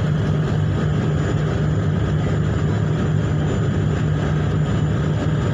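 Ship's engines running with a steady low drone, as a vessel manoeuvres during berthing.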